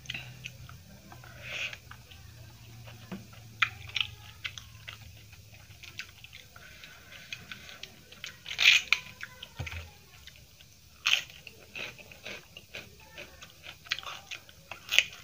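Close-miked eating sounds: chewing with a scatter of crisp crunching bites, the loudest about nine, eleven and fifteen seconds in, as a raw cabbage leaf wrapped round rice is bitten and chewed.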